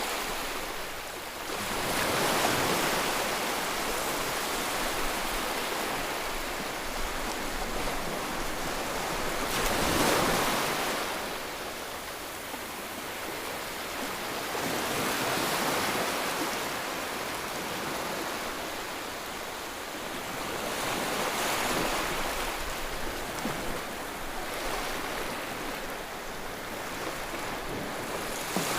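Sea surf on a sandy beach: an even rush of breaking waves that swells and fades every several seconds as each wave washes up the shore.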